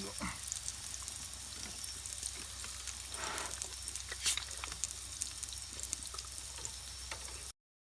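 Food sizzling in a pan: a steady hiss with small crackles and pops. It cuts off abruptly near the end.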